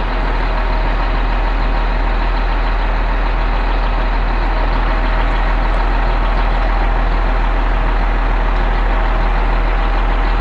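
Truck-mounted concrete pump's engine running loudly and steadily, with an unchanging low hum.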